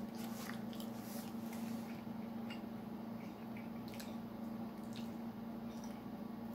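Wet chewing sounds and a few light clicks of a metal fork against a plate as it cuts into a cinnamon roll, over a steady low hum.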